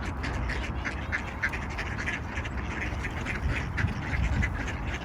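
A group of mallard ducks quacking rapidly, many short calls overlapping several times a second as they feed, over a steady low rumble.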